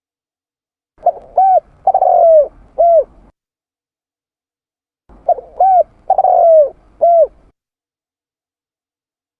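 Spotted dove (tekukur) cooing, a recorded lure call: two identical phrases, each of four rising-and-falling coos with the third one long, about four seconds apart with dead silence between.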